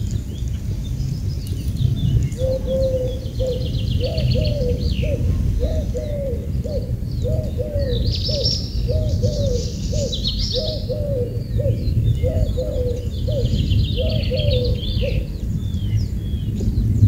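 Birds calling: a low hooting call repeated in short pairs, about two notes a second, from a couple of seconds in until near the end, over higher chirps and chattering from other birds. A steady low rumble runs underneath.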